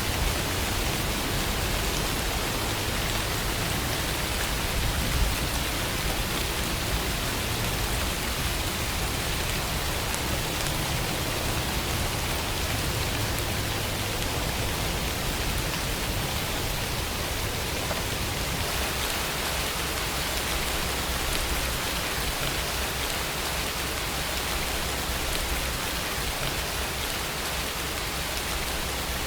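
Steady rainfall, an even hiss of rain falling on surfaces with a few faint drop ticks.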